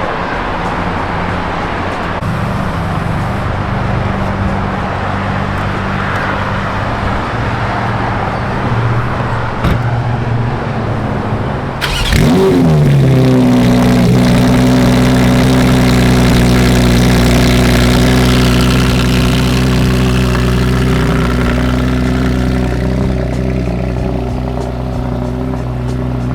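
Car sounds: engine and road noise, then about twelve seconds in a car engine starts with a short rev that quickly falls and settles into a steady idle.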